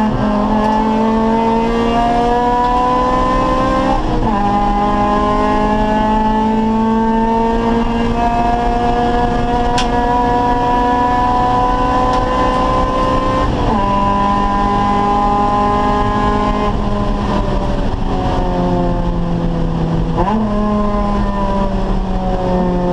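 Acura Integra race car's VTEC four-cylinder engine under hard acceleration, its pitch climbing steadily with upshifts a few seconds in and again just past halfway. It then falls off as the driver lifts to brake, with two quick rev jumps from downshifts near the end.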